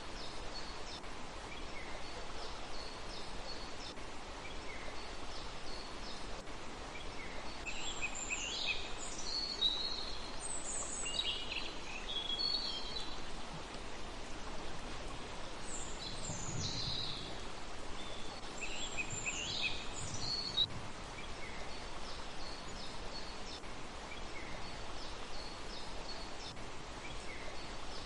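Small birds chirping and trilling over a steady hiss, with faint repeated chirps throughout and two spells of louder, busier calling about eight and sixteen seconds in.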